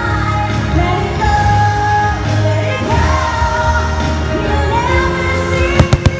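Fireworks-show soundtrack: a song with sung vocals over orchestral backing. Near the end it is cut through by two sharp firework bangs in quick succession.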